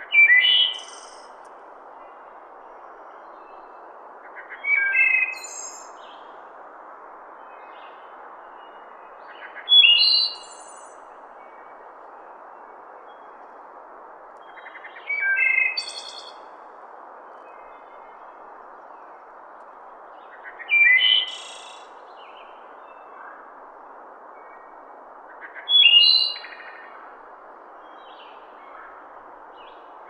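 Short bird-like chirping phrases, each under a second, coming at even intervals about every five seconds over a steady hiss.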